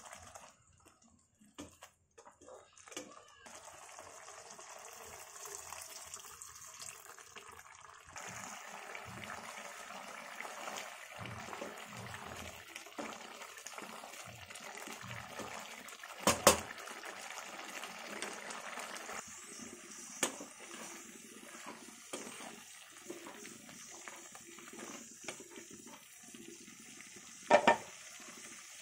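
Mutton sukka sizzling and bubbling in a pan, the steady frying noise growing louder about a third of the way in. Two sharp knocks, the loudest sounds, come around the middle and near the end.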